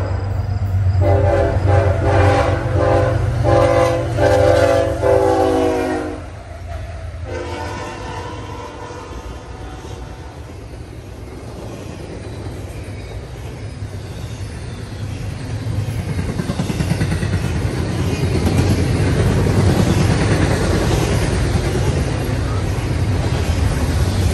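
Lead GE ES44AH diesel locomotive's air horn sounding a chord of several tones in a few blasts for about six seconds, then the locomotives pass and double-stack container cars roll by with a steady rail rumble that grows louder near the end.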